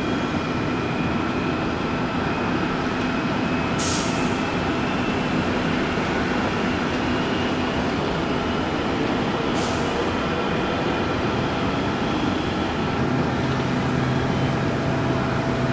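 Steady jet engine noise from an airliner, with several high whining tones held throughout. Two short hisses come about four and ten seconds in, and a low hum sets in near the end.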